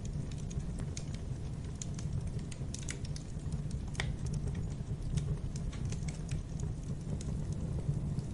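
Fireplace fire crackling: irregular sharp pops and snaps over a steady low rumble of the flames, with one louder snap about four seconds in.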